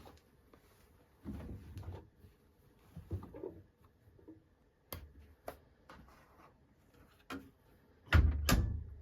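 Objects being handled: scattered clicks, knocks and brief rustles, with two heavier thumps close together near the end.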